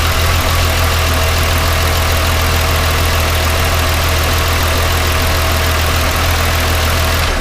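VW Golf VR6 engine idling steadily with a deep, even hum, running on a fresh oil and filter change. It cuts off abruptly near the end.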